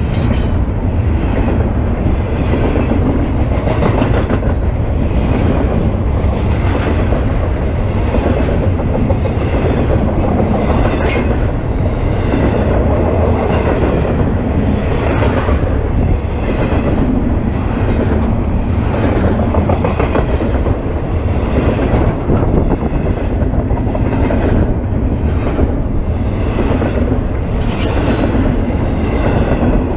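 Double-stack intermodal freight train's well cars rolling past at close range: a steady loud rumble of steel wheels on rail, with clicks and clanks at the rail joints and a few brief high wheel squeals.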